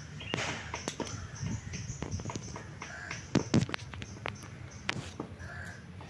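Outdoor ambience of birds calling, with scattered sharp clicks and two louder calls a little past the middle.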